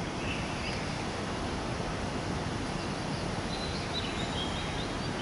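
Steady outdoor background noise with a few faint, short, high chirps of small birds, a cluster of them a little past the middle.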